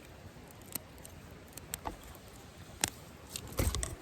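Small campfire crackling: scattered, irregular sharp pops from burning kindling, with a louder low rustle near the end.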